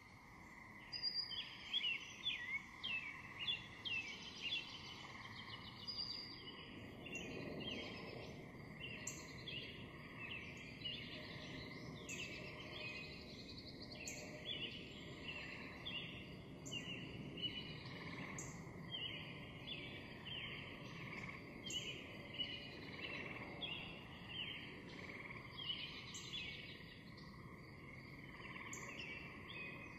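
Many small birds chirping and twittering in a continuous, busy chorus, faint, over a steady background hiss of nature ambience that starts abruptly at the beginning.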